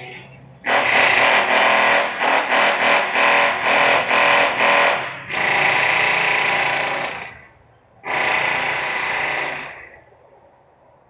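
Loud bursts of industrial power-tool noise. A rapidly pulsing run of about four pulses a second comes first, then two steadier bursts of about two seconds each, with short breaks between them.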